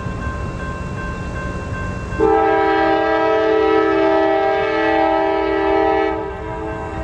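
Train air horn blowing one long blast of several notes sounding together as a chord, starting about two seconds in and lasting about four seconds, over the low rumble of a train.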